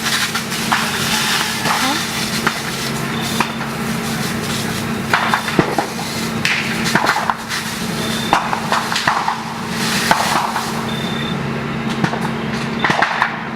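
Burning bamboo culms popping and crackling in a wildfire, sharp cracks coming irregularly and in clusters, over a steady low hum.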